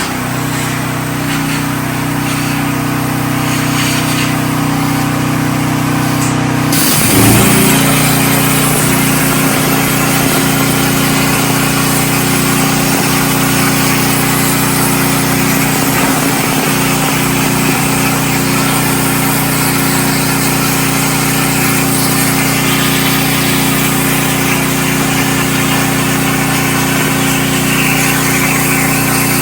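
Portable generator running steadily under a CNC plasma cutter cutting 1/16-inch hot rolled steel plate, with a steady hiss over the engine's hum. About seven seconds in the engine's note shifts and the hiss grows stronger, as the cutter takes load.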